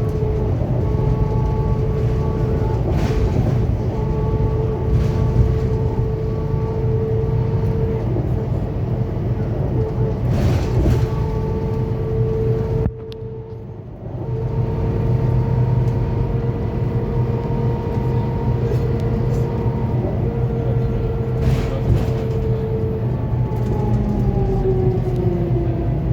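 Scania K280UB4 city bus underway: a steady diesel rumble with a drivetrain whine. About halfway through the sound drops away sharply for about a second, then returns. Near the end the whine falls in pitch as the bus slows.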